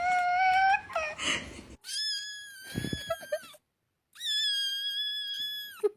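A cat giving long, drawn-out wailing meows, three in a row, each held at a steady high pitch; the later two are higher than the first.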